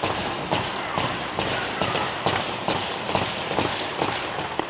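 Hockey skate strides on ice, picked up by a player-worn microphone: a regular scrape-and-click about twice a second over a steady hiss.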